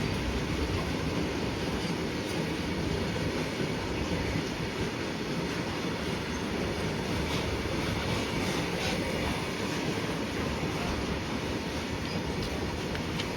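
Freight train rolling past: a steady rumble of wagons on the rails, with a few faint clicks from the wheels.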